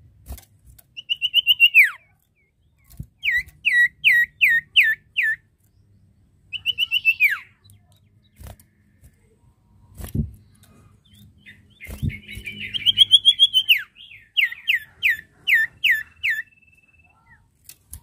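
Common iora (cipoh/sirtu) calling: fast trills that end in a long falling 'nyiull' whistle, and runs of five or six quick downslurred whistles, repeated several times. This is the 'nyiull' call used to challenge a rival. A few soft knocks come in the gaps.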